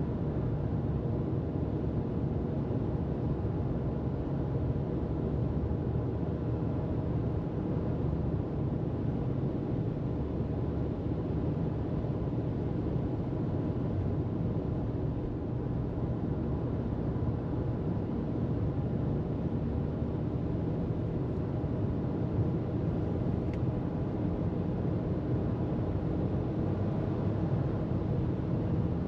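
Car cruising at steady freeway speed: an even low rumble of tyres on the road and engine noise, with a faint steady hum.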